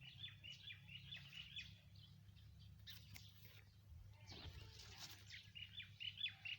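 Faint bird calls: a quick run of short, high chirps, about five a second, at the start and again near the end, over a steady low hum.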